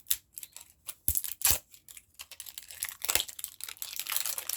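Plastic packaging crinkling and tearing as a small gashapon model kit is unwrapped by hand, with a few sharp clicks and knocks of plastic pieces. A longer stretch of crinkling comes near the end.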